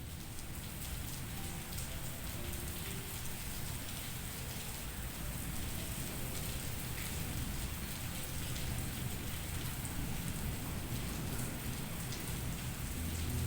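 Steady rainfall, an even hiss with occasional distinct drops striking a surface.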